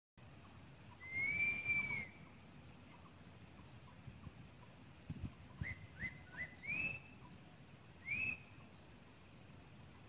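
A bird's clear whistled calls: one long arched whistle, then after a pause three short rising notes and two more arched whistles. A few low thuds of wind or handling come a little before the short notes.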